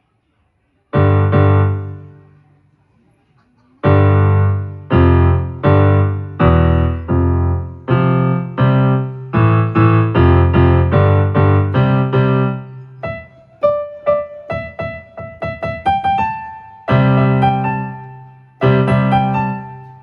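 Electronic keyboard with a piano sound, played haltingly by a beginner: block chords struck one at a time, each left to ring and die away, with a long pause after the first. In the middle the chords give way to a short run of single notes before the chords return.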